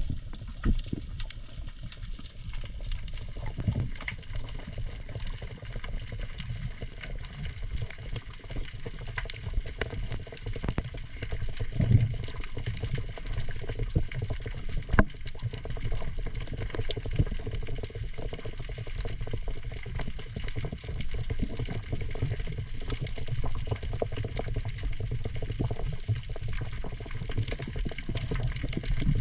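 Water sloshing and gurgling with a steady low rumble and many faint scattered ticks, typical of a spearfisher's camera in or at the surface of the sea.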